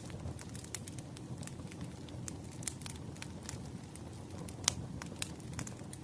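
Wood fire crackling: a steady low rumble of flames with irregular sharp pops, two louder ones late on.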